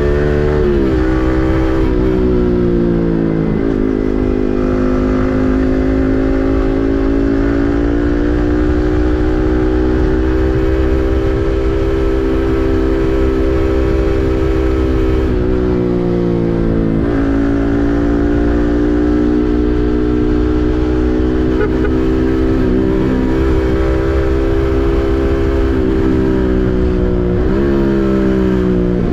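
Yamaha MT-15's 155 cc single-cylinder engine through an SC Project full-system exhaust, under way on the road. The revs climb and drop through a few quick gear shifts in the first few seconds, hold almost steady through a long cruise, shift again about halfway, and once more near the end.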